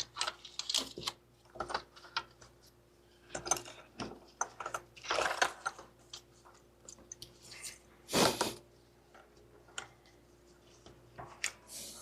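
Wiring harness being handled and routed by hand: irregular clicks, rustles and short scrapes of plastic connectors, clips and wire loom. There are louder bursts of rustling about five seconds in and about eight seconds in.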